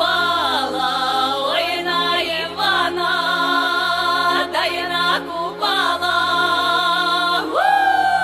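A song with singing voices over steady held low tones. Near the end a voice slides up into one long held note that slowly falls away.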